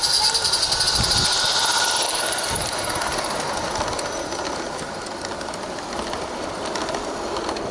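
Garden-scale model train on 32mm track passing, with a fast even run of clicks. It is loudest for the first two seconds, then fades as it moves away.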